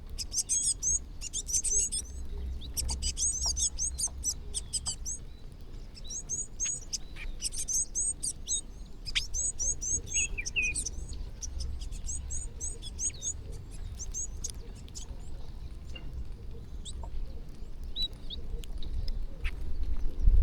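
A flock of small birds chirping busily while they feed: many quick, high chirps overlap in dense bursts, thickest in the first few seconds and thinning out towards the end. A low rumble sits underneath throughout.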